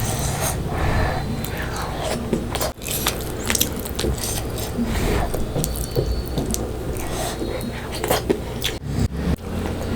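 Close-miked eating sounds: chewing fish curry and rice, with many short, wet mouth clicks and smacks, over a steady low hum.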